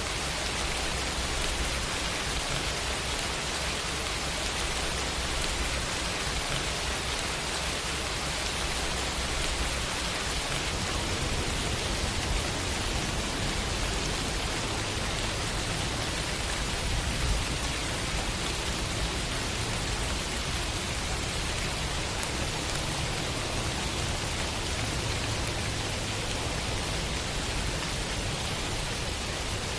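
Steady rain falling in an even hiss, with a low rumble underneath that shifts about a third of the way through.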